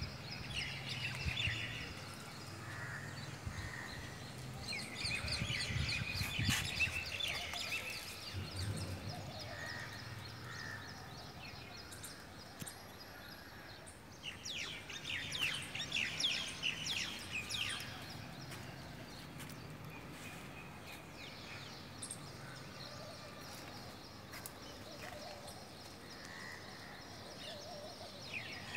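Birds chirping over steady outdoor background noise, with two busier spells of rapid chirping about five and fifteen seconds in.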